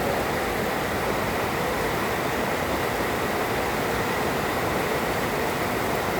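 Heavy rain falling, a steady even hiss with a faint steady high tone underneath.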